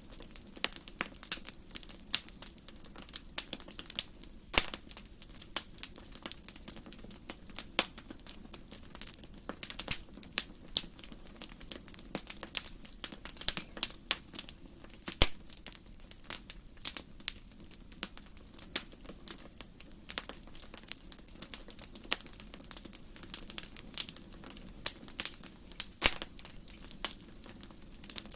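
Wood fire in a fireplace crackling, with frequent irregular sharp pops over a steady low rush of flame; one louder pop about halfway through.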